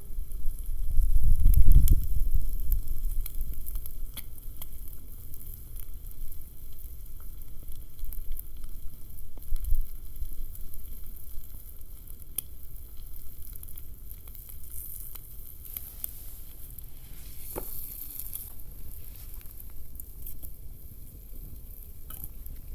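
Food sizzling in a pan over a campfire, a fine steady hiss with scattered small crackles and ticks. A loud low rumble comes about one to two seconds in, and a sharper click later on.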